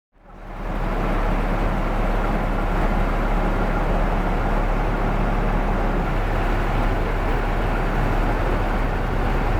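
Steady engine hum and road noise of a Scania K410 coach on the move, heard from inside the cabin; it fades in over the first half second, then holds level.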